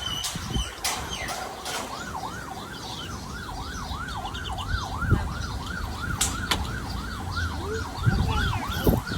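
A siren wailing in a fast, even rise-and-fall, about three cycles a second, starting about a second in. Faint high chirps sound above it.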